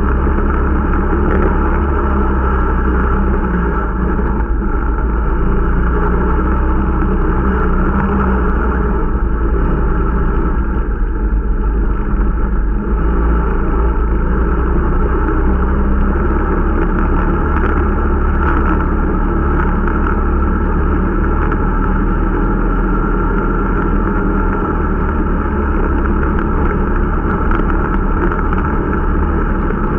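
Irbis Dingo T125 snowmobile engine running steadily while the machine is ridden, during its break-in.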